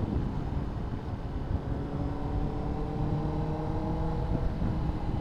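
Honda CBR600RR inline-four engine running while riding, its note creeping slowly upward. It breaks off briefly about four seconds in and comes back slightly lower, as in a gear change.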